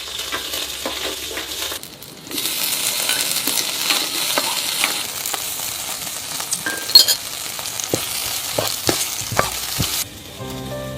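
Food sizzling as it fries in a pan while being stirred, with a spatula scraping and clicking against the pan. There is one sharp clink about seven seconds in.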